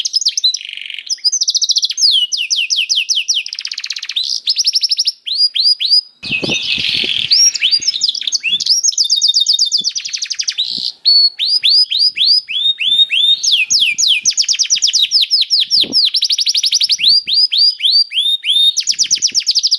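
Domestic canary singing continuously: long runs of rapid, repeated high trills, each phrase a quick series of falling sweeps, switching tempo and pitch from phrase to phrase.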